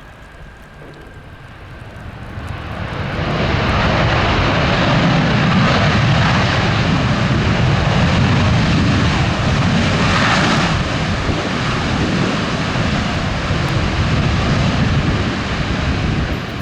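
Jet airliner engine noise, building over about two seconds to a loud, steady sound and easing a little in the last few seconds, as the aircraft passes on takeoff or landing.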